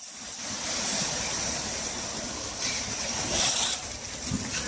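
Construction machinery engine running steadily, with a broad hissing noise over it.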